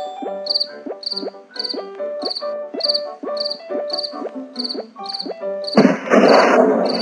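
Cartoon background music: short pitched notes that dip in pitch about twice a second, with cricket-like chirps repeating at the same pace. About six seconds in, a loud steady hiss sets in over them.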